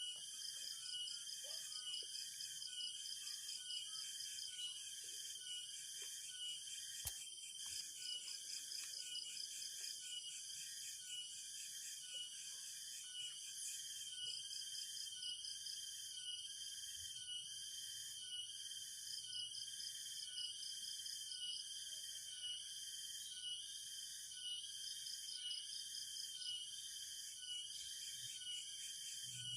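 Dense insect chorus: steady high-pitched shrilling at several pitches, over a lower pulsing call that repeats about one and a half times a second. A single sharp click sounds about seven seconds in.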